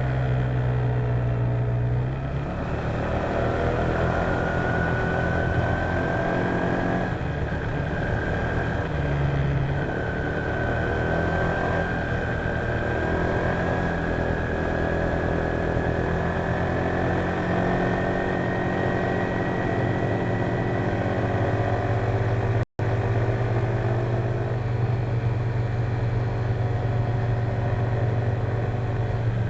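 Honda PCX150 scooter's single-cylinder engine running under way, picked up by a dashcam mounted on the bike. A high whine rises slowly in pitch over most of the stretch as speed builds. The sound drops out for an instant about two-thirds of the way through.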